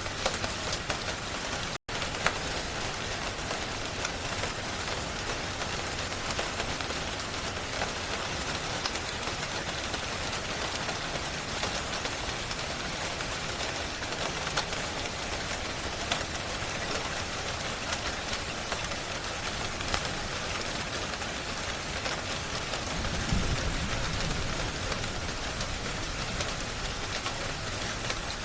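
Steady rain, an even hiss with many sharp crackles scattered through it. The sound cuts out for an instant about two seconds in, and a low rumble swells briefly near the end.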